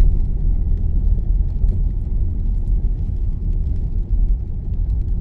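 Steady low road and tyre rumble inside the cabin of a moving car.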